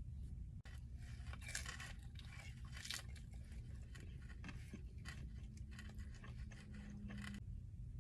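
Close-miked eating sounds: bites, chewing and crunching of food, with a run of short crisp crackles through most of the stretch.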